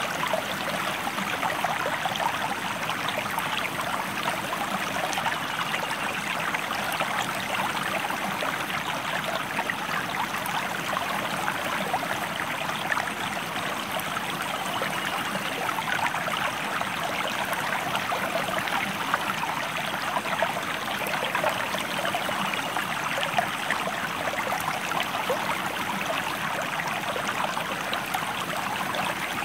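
A stream or small river flowing, a steady, unbroken babble of running water.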